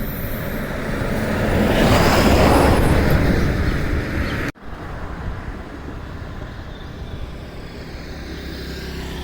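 Riding noise from a two-stroke Bajaj Super scooter on the move: engine rumble mixed with wind rush. It swells louder for a couple of seconds, breaks off abruptly about four and a half seconds in, and then runs on quieter and steadier.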